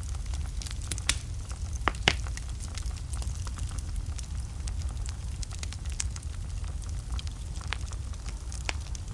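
Wood fire burning in a fireplace: a low steady rumble of flames under scattered sharp crackles and pops. The loudest pops come about one and two seconds in.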